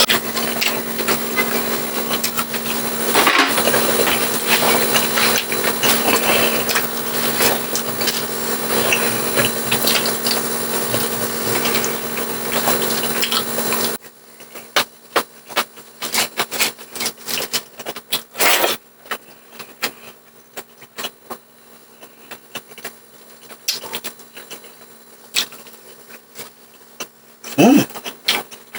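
Close-up eating sounds: chewing, with spoon clicks and knocks against a bowl, over a steady background hum. About halfway through the hum drops out abruptly, leaving sharp separate clicks of chewing and utensils.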